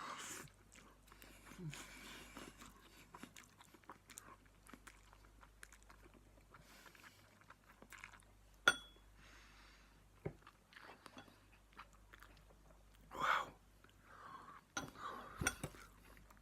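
A person chewing a mouthful of instant ramen noodles close to the microphone, with irregular soft wet smacks and clicks. One sharper click comes a little past halfway.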